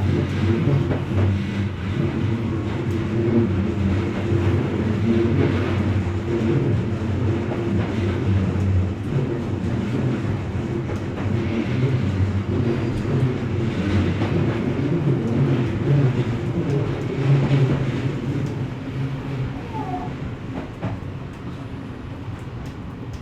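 Odakyu electric commuter train running, heard from inside the front car: a steady low rumble of motors and wheels on the rails, easing off a little near the end with a few light clicks.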